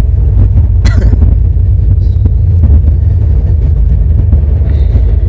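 Steady, loud low rumble of a passenger train running, heard from on board, with a single sharp click about a second in.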